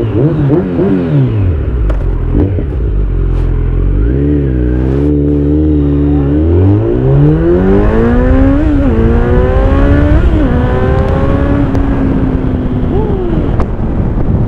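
Kawasaki Z900's four-cylinder engine through an Akrapovic exhaust with the dB killer fitted, running low after easing off, then accelerating hard about halfway through. The revs climb steeply and drop at two upshifts about a second and a half apart, then level off and ease.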